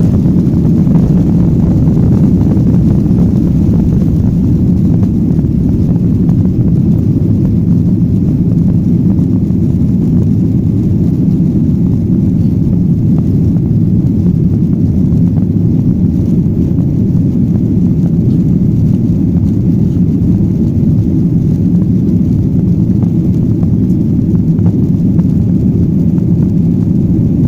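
Jet airliner engines running at takeoff power: a loud, steady, low rumble that holds without change.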